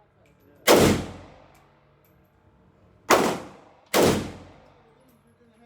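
Three gunshots from a firearm at a shooting range, each with a short ringing decay. The second and third come less than a second apart.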